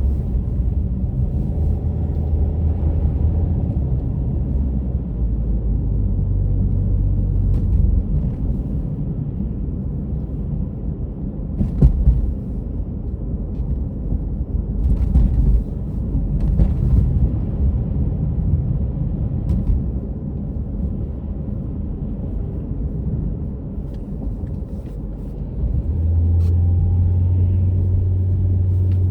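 Steady low rumble of a car driving, heard from inside the cabin, with a low droning hum that swells at times and a single thump about twelve seconds in.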